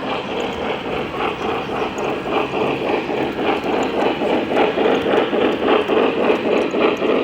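Model train running on a layout, with a steady, even pulsing about four to five times a second.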